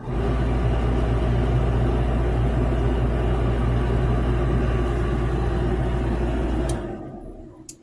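Bosch clothes dryer running: a steady low hum with a rushing whir. It stops with a click about seven seconds in and winds down over about a second.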